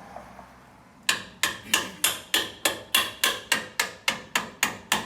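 Hammer blows on a steel suspension bolt, driving it through and out. After about a second of quiet, steady, evenly paced strikes come about three to four a second, each with a short metallic ring.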